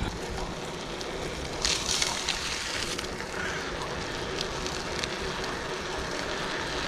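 Steady rushing noise of a gravel bike being ridden: tyres rolling on a dirt road with wind on the microphone.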